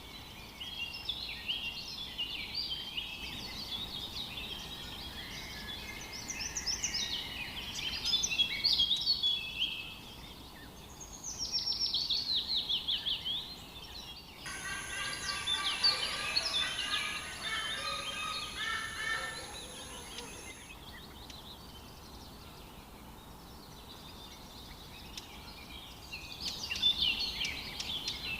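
Wild birds singing and calling: busy chirps and trills, a quick run of falling notes, then a few seconds of fuller, lower-pitched calls over a steady high whine that stops suddenly.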